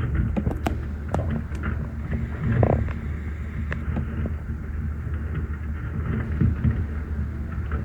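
Boat motor running steadily, a low hum with scattered short knocks and cracks over it.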